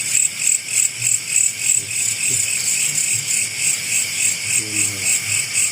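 Insects chirping at night, a continuous high-pitched pulsing chorus at about four pulses a second. A faint voice is heard briefly near the end.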